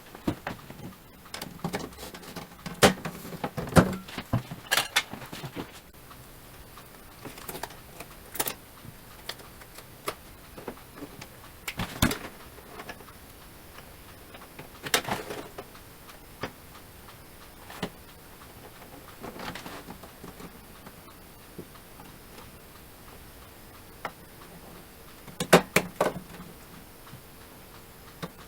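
Scattered sharp clicks and knocks of small parts being handled during a microwave door-latch repair, with a quick cluster of clicks near the end.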